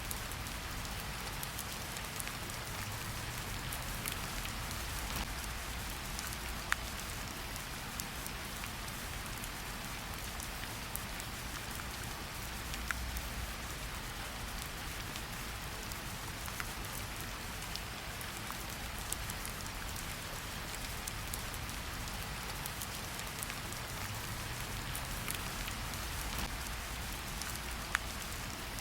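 Steady rain falling in a forest, an even hiss with scattered louder drop ticks, a few sharper ones near 7, 13 and 28 seconds in.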